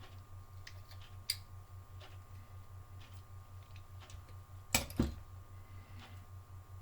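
Small clicks and taps of tools and parts handled on a workbench during soldering, with two sharp knocks a quarter-second apart just before five seconds in, over a steady low pulsing hum.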